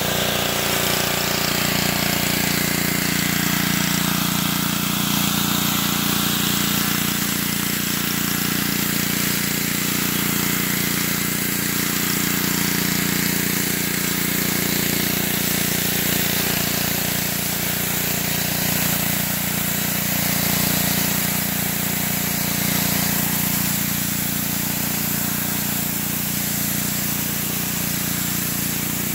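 Gasoline-engine 2750 psi pressure washer running steadily under load, its engine drone mixed with the hiss of the water spray.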